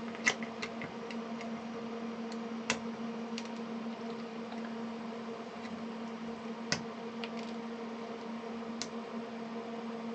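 Steady hum of bench equipment under desoldering work on a power-supply circuit board, with three sharp clicks of tools on the board (just after the start, near three seconds and near seven seconds) and a few fainter ticks.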